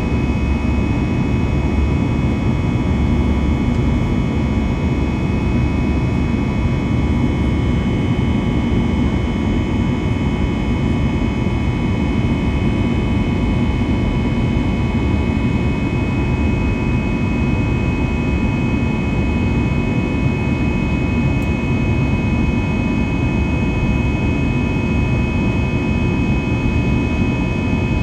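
Airbus A321's jet engines droning steadily, heard inside the passenger cabin in flight: a low rumble with a few steady whining tones above it.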